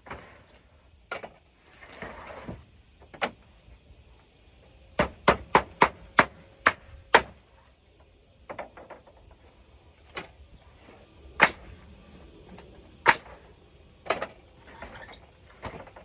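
Hammer blows on wood while repairing a pallet: single strikes spaced a second or more apart, with a quick run of about eight strikes near the middle.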